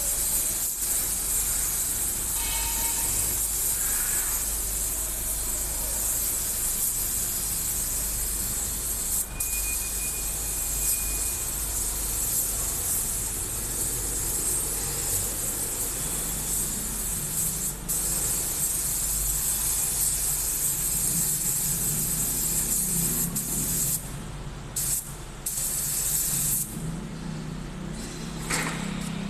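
Compressed-air paint spray gun hissing steadily while spraying, the trigger let off briefly a few times near the end. A low hum joins in about halfway.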